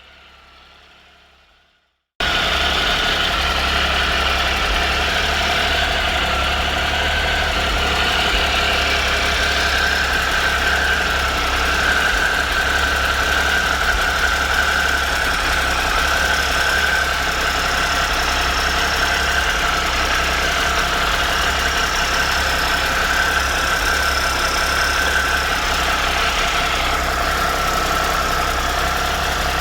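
2013 Triumph Tiger Explorer's 1215 cc three-cylinder engine idling steadily, starting abruptly about two seconds in. It runs with a light tick that is still there after a new cam chain, hydraulic cam chain tensioner and exhaust header gaskets were fitted, which the mechanic judges to be normal mechanical engine noise.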